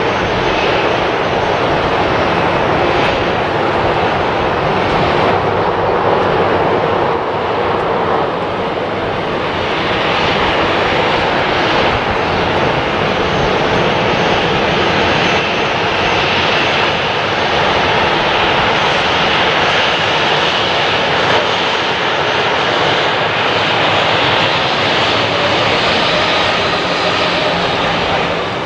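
An airliner's engines running loud and steady as the aircraft passes, dipping slightly about eight seconds in.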